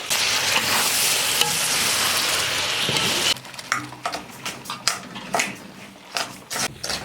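Food sizzling loudly in hot oil in a cooking pot, stopping abruptly about three seconds in; after that a utensil scrapes and clicks against the pot as it is stirred.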